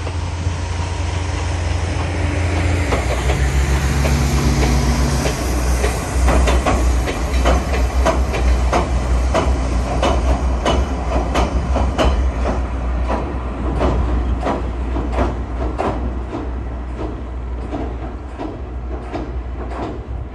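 Kominato Railway Satoyama Torokko train, pulled by a steam-styled diesel locomotive, rumbling across a steel girder bridge. A low engine drone comes first, then a steady run of rhythmic wheel clacks over the rail joints as the cars pass, easing slightly near the end.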